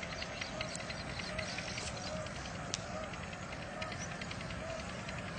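Birds calling outdoors: short, arched mid-pitched notes repeated roughly once a second over a dense chatter of quick high ticks and a steady hiss of background noise.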